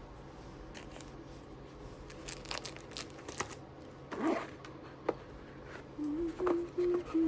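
Paper or plastic packaging being torn open and crinkled, heard as a run of sharp rustles and clicks. Near the end a low, hum-like tone is held in a few short steps.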